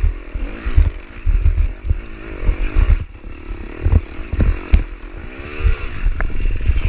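Dirt bike engine revving up and down in short bursts while climbing a rocky hill, with repeated heavy low thumps as the bike bounces over rocks.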